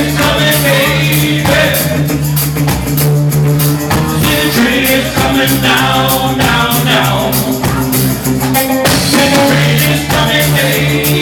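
Live rock band playing a song, with drums keeping a steady beat under bass and pitched instruments.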